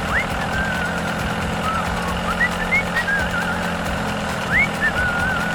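A vehicle engine running steadily with an even low drone, while thin high wavering whistles come and go over it.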